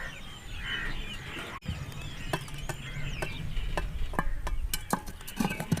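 Small birds chirping, with scattered sharp clicks and taps and a low rumble underneath; the sound breaks off briefly about a second and a half in.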